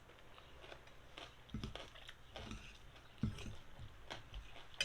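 A person eating noodles with fish paste: soft wet mouth clicks and smacks of chewing, with a few brief low thumps.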